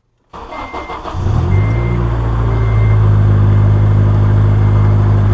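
2003 Honda Element's 2.4-litre four-cylinder engine cranking, catching about a second in and settling into a steady idle, run to circulate an engine flush cleaner through the oil. A high warning chime beeps about once a second four times, fading.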